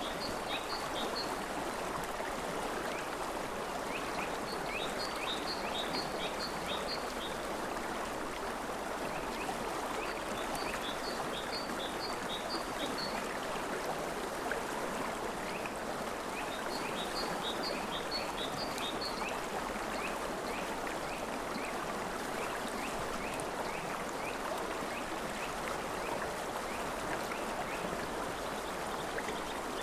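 River water flowing steadily. Over it, a bird calls in short runs of quick, high-pitched chirps, repeated every five or six seconds in the first part, with scattered single chirps between.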